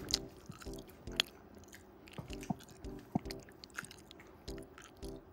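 A person chewing and biting food, with a few sharp mouth clicks and small crunches spaced a second or so apart.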